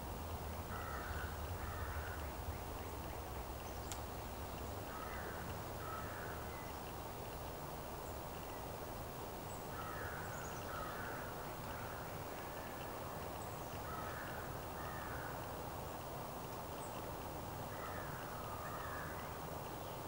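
A bird calling outdoors, giving short calls in pairs about every four to five seconds, with a few faint high chirps. A low rumble sits underneath in the first few seconds.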